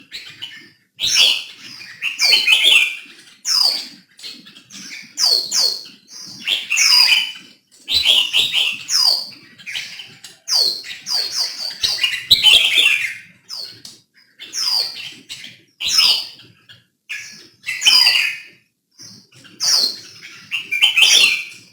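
Red-whiskered bulbul singing: short, bright phrases of a few quick whistled notes, repeated every second or two with brief pauses between.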